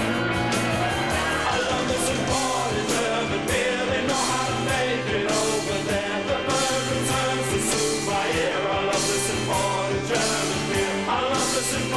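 Guitar rock song played by a full band, with drums keeping a steady beat and singing over it.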